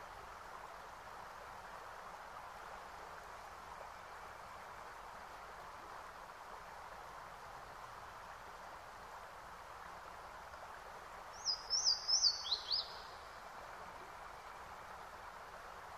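A bird calls once, a quick run of about five high chirps, each dropping in pitch, over a steady soft hiss.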